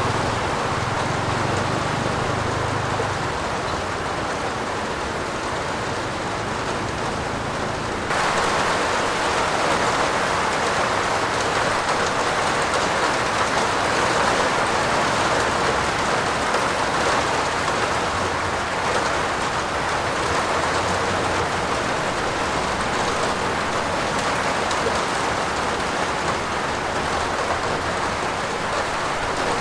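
Steady heavy rain falling on a roof, an even hiss of drops. About eight seconds in it turns suddenly a little louder and brighter.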